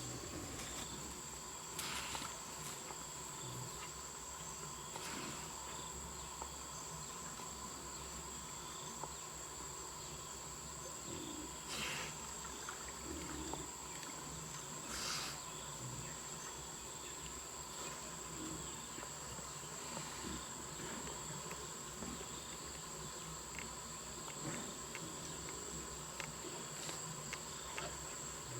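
Insects singing in a steady high drone, with a few brief louder rustles or knocks now and then.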